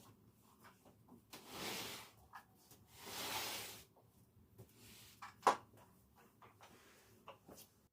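Household handling noises: two swishes of about a second each, then a sharp knock about five and a half seconds in, among small clicks and taps.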